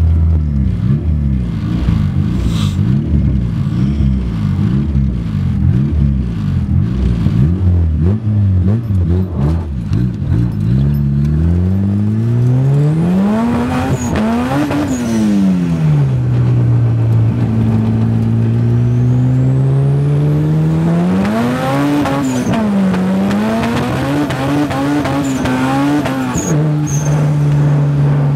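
Turbocharged Honda Civic engine heard from inside the cabin. It idles for about the first eleven seconds, then revs up as the car pulls away. The pitch climbs and drops at gear changes, holds steady while cruising, and rises again toward the end.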